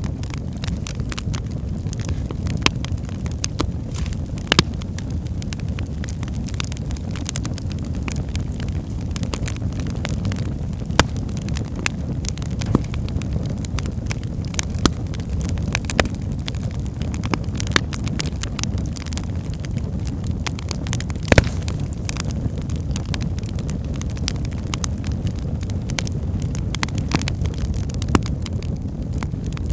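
Wood fire burning in a fireplace: a steady low rumble of flames with irregular crackles and sharp pops from the burning logs, a few louder snaps scattered throughout.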